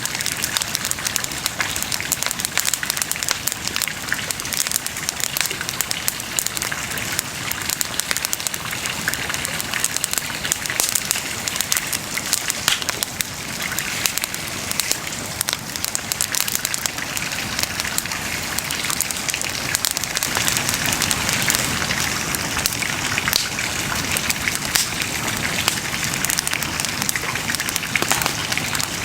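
Wood bonfire burning with a continuous dense crackle of many small pops and snaps over a steady hiss.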